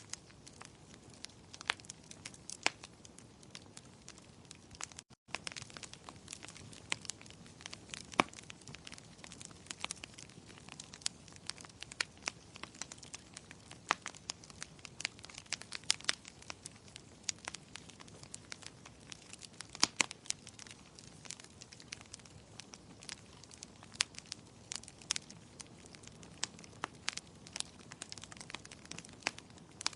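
Fireplace fire crackling: irregular sharp pops and snaps over a low steady hiss, with the sound cutting out for an instant about five seconds in.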